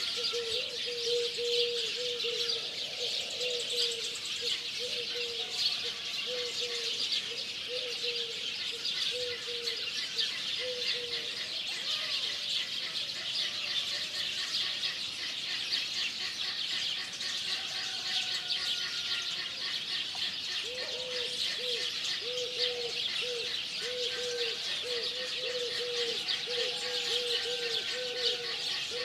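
Birds calling over a steady high-pitched hiss, with one bird repeating a short low call about twice a second, stopping after about ten seconds and starting again near the end.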